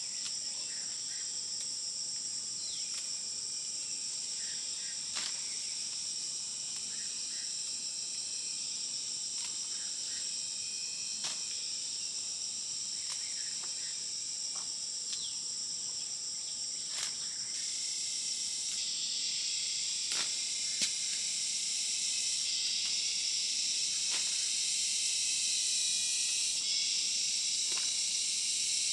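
Steady, high-pitched insect chorus that swells louder and fuller about two-thirds of the way through, with scattered sharp clicks.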